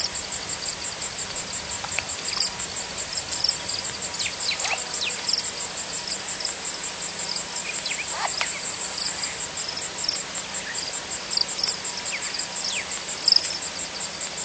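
Night insects, crickets or the like, trilling in a steady fast pulse, with scattered louder chirps and a few short falling calls from other animals.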